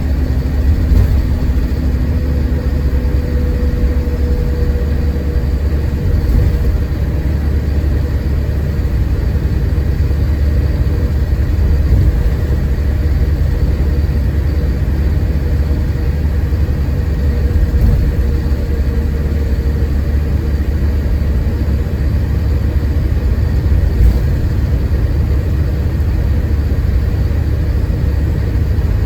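Scania K410IB coach underway, heard from inside the cabin: a steady low drone of the diesel engine and road noise, with a faint whine that comes and goes.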